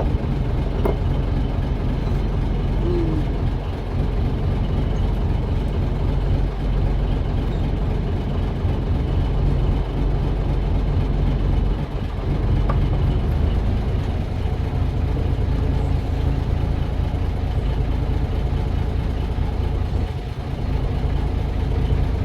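Fishing boat's engine running steadily at idle, a constant low hum.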